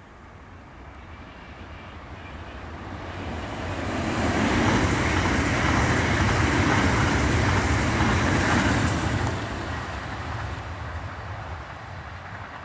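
Two coupled BR 1440 (Alstom Coradia Continental) electric multiple units passing on the track: wheels on rails rumbling. The sound builds as the train approaches, is loudest for about five seconds as it goes by, then fades away.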